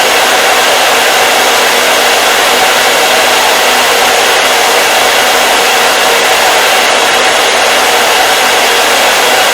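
Hair dryer running continuously: a loud, steady blowing rush of fan and airflow with a faint motor hum underneath, unchanging throughout.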